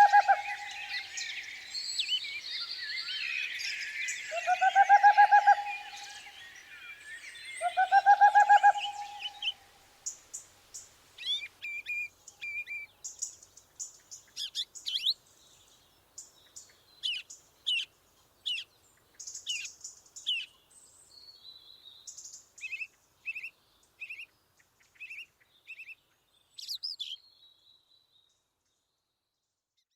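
Several wild birds singing together, with a louder, lower call of about a second repeated three times in the first nine seconds. After about ten seconds only scattered short chirps remain, and these stop near the end.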